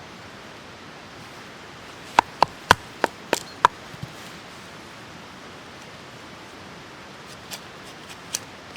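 Tracker-style knife chopping into a piece of firewood: six sharp knocks in quick succession about two seconds in, then three lighter knocks near the end.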